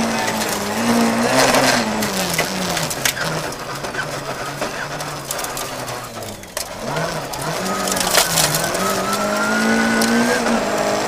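Volvo 940 Evo rally car's engine heard from inside the cabin, coming off high revs and dropping in pitch through a series of downshifts as the car brakes hard for a tight junction, then revving up again as it accelerates away in a low gear. A few sharp knocks cut through, about three seconds and eight seconds in.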